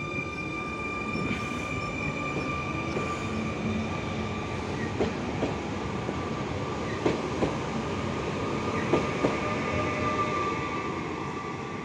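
22WEd electric multiple unit running along the track: a steady high whine over the rumble of its wheels. Several pairs of clicks come from the wheels crossing rail joints, in the middle and again towards the end.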